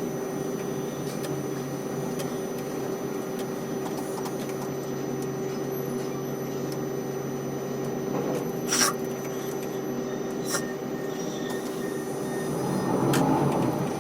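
Steady machinery hum from a quay crane, a low drone with a steady higher tone over it, broken by two sharp clicks about two-thirds of the way in and a swell of rushing noise near the end.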